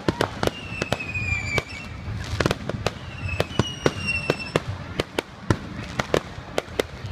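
Fireworks display: an irregular string of sharp bangs and crackles from bursting aerial shells. Long, slightly falling whistles come from the fireworks about a second in and again around the middle.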